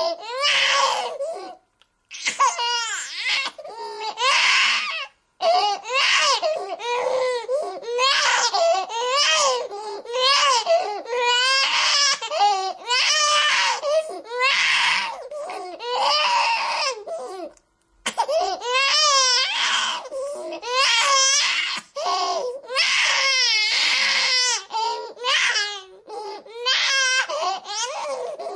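A baby crying hard: a long run of wavering wails with quick catches of breath between them. The crying is broken by a few short silent gaps.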